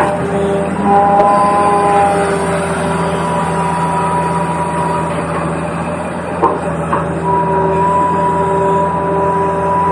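Small electric motors and plastic gearboxes of a radio-controlled toy excavator whining steadily, their pitch shifting as different functions start and stop, with two short knocks a little past halfway.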